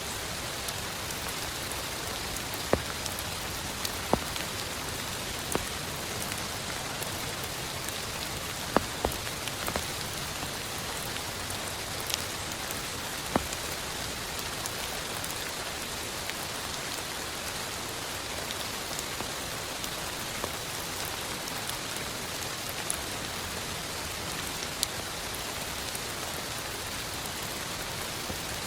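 Heavy rain falling steadily, with scattered louder single drops striking close by every few seconds.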